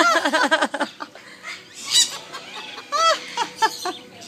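Pet parrot imitating a duck's quack: a rapid run of about eight short quacking calls in the first second, then a few more single calls spaced out over the next three seconds.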